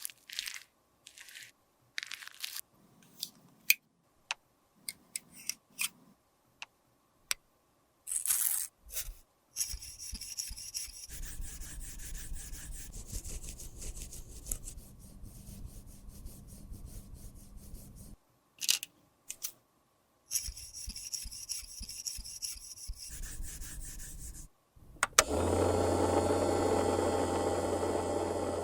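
Cosmetics being worked by hand during a makeup repair: scattered light clicks and taps, then long spells of scraping and rubbing. Near the end comes a louder steady noise with a low hum that lasts a few seconds.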